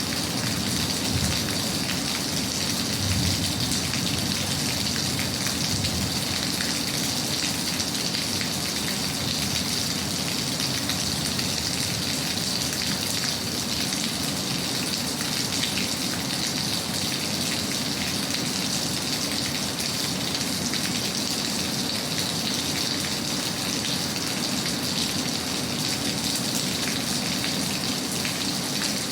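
Steady rain falling, an even, unbroken patter of raindrops with no pauses.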